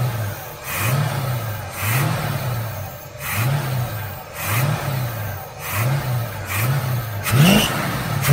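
Chevy 350 small-block V8, fed by a new knock-off Rochester Quadrajet four-barrel carburetor, blipped by hand at the throttle linkage about once a second, its speed rising and falling each time. Near the end two quicker, sharper revs climb higher.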